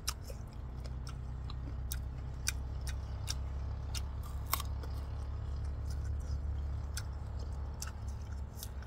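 Close-up crunching and chewing of a raw lemongrass stalk: sharp, crisp crunches at an irregular pace, over a steady low rumble.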